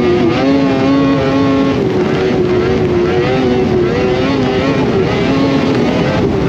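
Polaris Indy Cross Country 600 snowmobile's two-stroke engine running under way, its revs rising and falling over and over.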